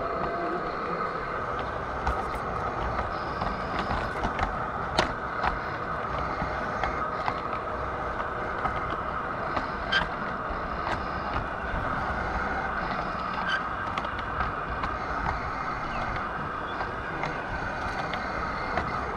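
G scale model train running on outdoor garden track: a steady mechanical running noise with scattered sharp clicks.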